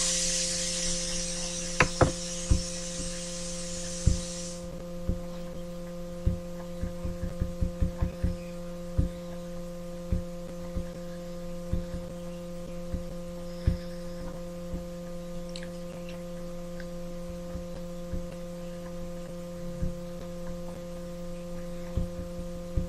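Steady electrical hum made of several low tones, with a hiss over it that stops suddenly about four seconds in. Scattered short clicks or knocks come irregularly, in a quick cluster around the middle.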